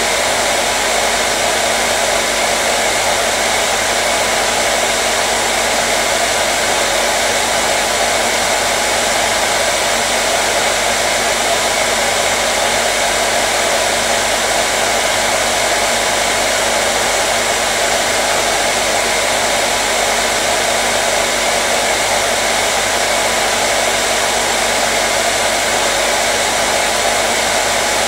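Hair dryer running continuously at a constant setting: a steady, unchanging blowing hiss.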